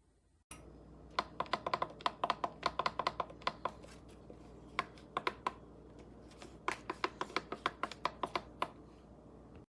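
Typing on a computer keyboard: quick runs of keystroke clicks with short pauses between them, over a steady low hum. It starts abruptly about half a second in and cuts off suddenly near the end.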